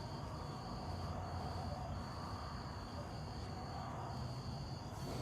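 Crickets trilling: one steady high trill with short breaks, over a faint low hum.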